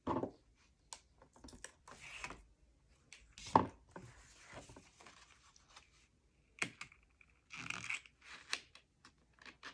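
Cardstock being handled and pressed into place on a work surface: paper rustling and scraping with scattered small taps, the loudest a sharp knock about three and a half seconds in.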